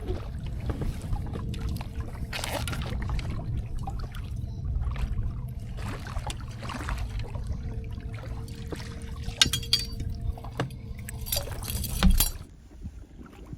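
Water splashing and dripping, with scattered clicks and knocks of fishing gear against a kayak while a hooked fish is being handled. A sharp, loud splash or knock comes about twelve seconds in, after which it goes quieter.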